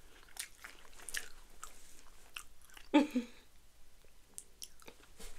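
Chewing a Coffee Crisp, a chocolate-coated layered wafer bar: scattered small crunches and crackles. A brief voice sound about three seconds in.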